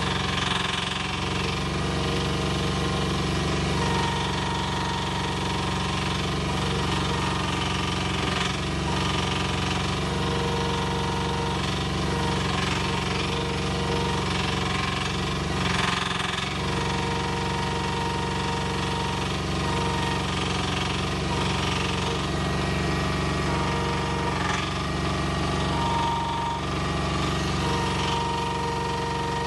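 Cartywell CW12S mini excavator's Koop 195 single-cylinder engine running steadily while its hydraulics are worked. A whine from the hydraulics comes and goes as the functions are operated.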